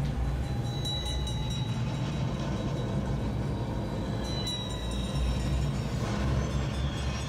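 Steady low mechanical rumble of a mine cage lift descending a shaft, with two brief thin metallic squeals, about a second in and about four and a half seconds in.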